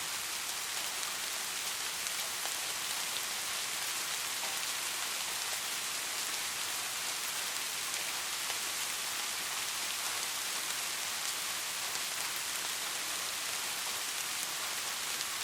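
Steady rain falling on a street: an even hiss with faint scattered drop ticks.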